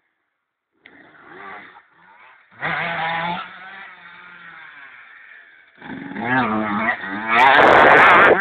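125cc motocross motorcycle engines revving up and easing off after a brief silence at the start. The engine pitch climbs and falls with the throttle, and the sound is loudest near the end as a bike comes close.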